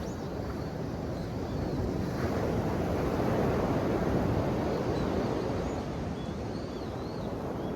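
Ocean waves washing onto the shore, swelling about two seconds in and easing off again toward the end.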